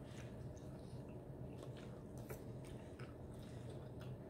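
Faint chewing of pasta salad, with scattered light clicks of forks on plates, over a low steady hum.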